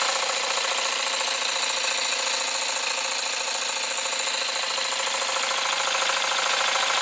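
Jensen 20G model steam engine running steadily and lightly loaded on live steam: a fast, even chuffing of exhaust steam with a constant hiss.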